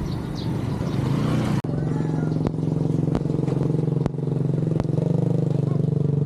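A small engine running steadily at a constant pitch, with a few sharp clicks over it.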